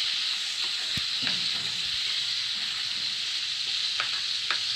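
Chopped onions and ginger-garlic paste sizzling steadily in hot oil in a non-stick frying pan as they are sautéed, with a spatula scraping and knocking against the pan a few times, once about a second in and twice near the end.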